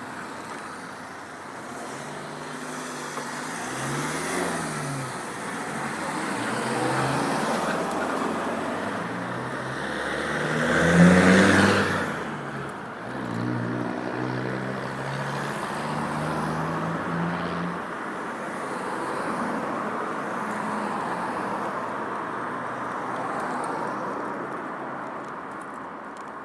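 Road traffic: cars passing along the street, with engine hum rising and falling as vehicles go by. The loudest one passes close about eleven seconds in.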